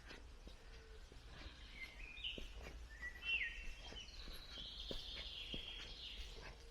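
A songbird singing: short stepped and sliding whistled notes, then a longer, faster trill. Soft, evenly spaced footsteps on a path sound under it.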